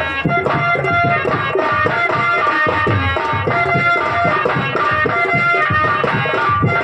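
Instrumental interlude of Indian folk theatre music: a fast hand-drum rhythm under a held, steady melody line.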